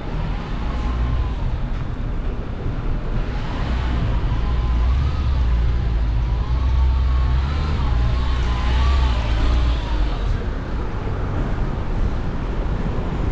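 Street traffic on a rain-soaked road, with wind rumbling heavily on the microphone. A faint tone wavers up and down through the middle.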